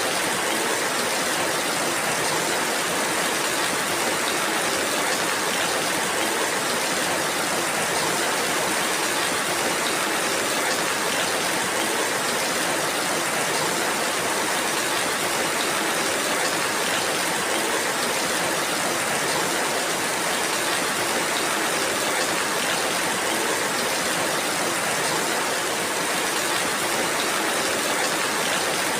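Steady rainfall, an even hiss with no single drops, thunder or other sounds standing out.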